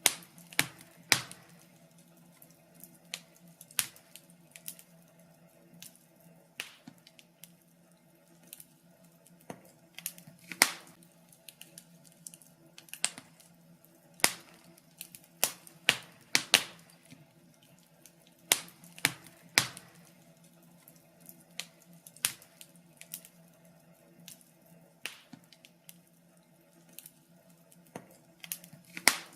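Wood fire crackling, with irregular sharp pops and snaps, a few of them much louder, over a faint steady hum.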